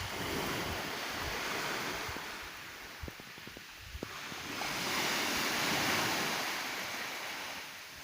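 Black Sea waves breaking on the shore, coming in two long surges with a lull between them, the second one louder; a few faint clicks sound in the lull.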